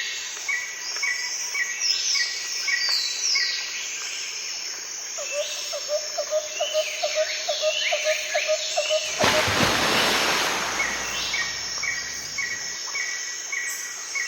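Several birds calling with repeated short chirps and sliding whistles over a steady outdoor hiss. A burst of rushing noise comes about nine seconds in and lasts about a second.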